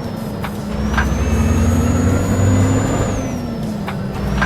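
Truck engine running under way, its note and a high whine rising slowly, then dropping about three seconds in, and rising again near the end. A few sharp knocks cut through the engine sound.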